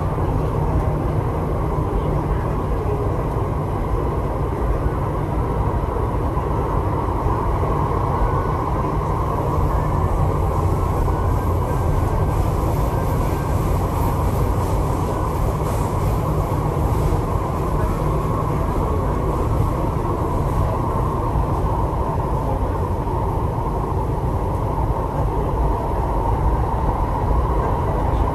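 Steady running noise heard from inside an MTR East Rail Line R-Train car while the train is moving: an even rumble of wheels on rail and running gear with a band of hum in the middle, unchanging throughout.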